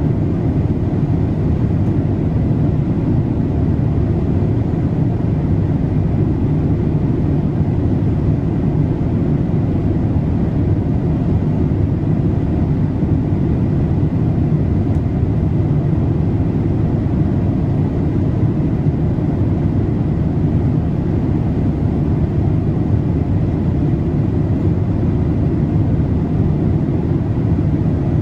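Steady deep rushing cabin noise of a Boeing 787-8 in cruise, engine and airflow sound heard from a window seat, with a faint thin steady tone above the low rumble.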